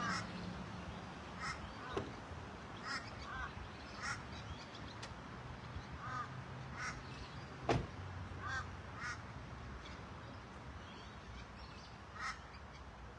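Ducks quacking: a string of short, harsh calls repeating every half second to a second, with a couple of sharp knocks in between.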